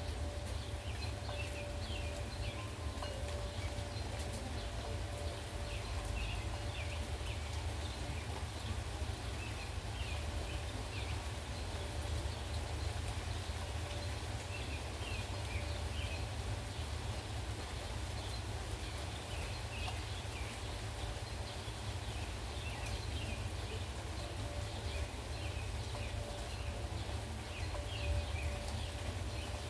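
Steady rain with wind rumbling on the microphone, and frequent short bird chirps over it.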